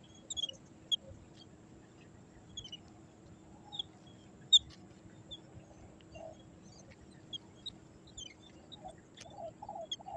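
Birds calling: scattered short, high chirps, with a run of low, repeated notes starting near the end.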